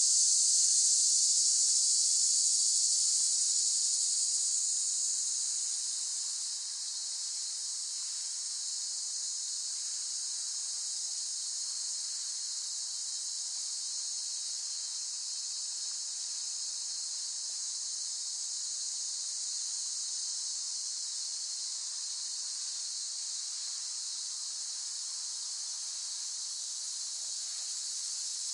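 Cicadas calling in a steady, high-pitched buzzing chorus. The chorus is louder at first and eases down about six seconds in, then holds steady.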